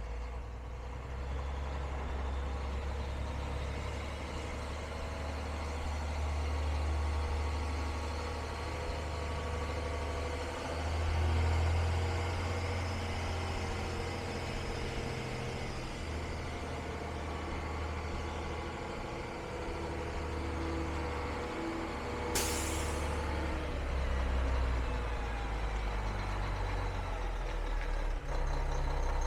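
Diesel engine of a 2002 Mack CX613 Vision semi truck running at low speed, a deep rumble that swells and eases. About 22 seconds in there is a short, sharp hiss of released air, typical of the truck's air brakes.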